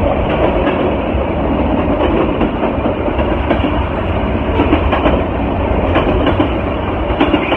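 Freight train passing close by: the steady rumble of freight cars rolling on the rails, with scattered wheel clicks, a few of them near the end.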